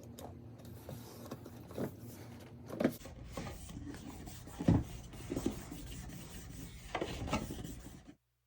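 Hands rubbing and smoothing paper down onto a small wooden box, with scraping and a few light knocks as the box is handled. The sound cuts off suddenly near the end.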